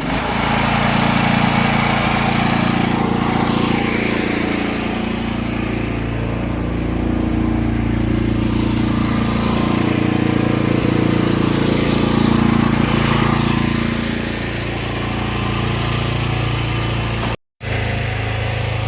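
Pressure-washer engine running steadily. A brief silent break near the end.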